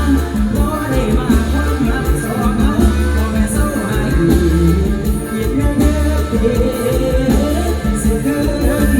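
Live mor lam band music with a singer, over heavy bass.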